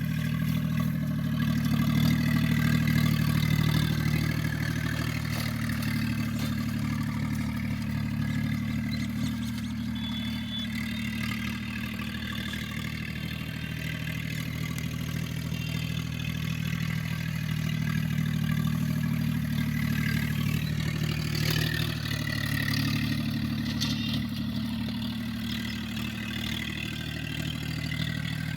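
Tractor engine running steadily while it works a tractor-drawn gang mower. Its loudness swells and eases slowly over the stretch.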